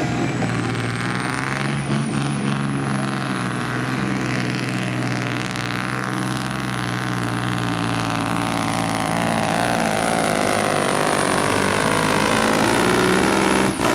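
Supersport pulling truck's diesel engine running hard and steady through a pull, with a thin high whistle above the engine note; the sound drops off suddenly near the end.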